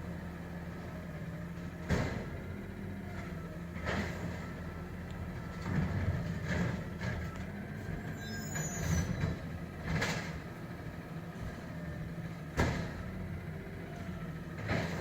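Garbage truck engine running steadily while its arm empties carts, with a sharp knock or slam every two to three seconds as the carts hit the hopper. A brief high squeal comes about halfway through.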